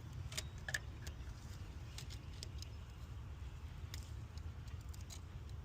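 Pliers gripping and working a coolant temperature sensor in the engine bay: a few scattered light clicks over a steady low rumble.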